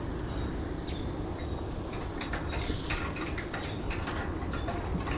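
Fly reel's click-and-pawl drag ratcheting in irregular runs of sharp clicks, heaviest from about two seconds in, as line goes on or off the spool with a fish hooked; a steady low rumble underneath.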